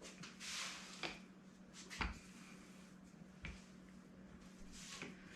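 Rolling pin working over thin cookie dough on a floured counter, faint, with a soft rustle near the start and a few soft knocks, the clearest about two seconds in.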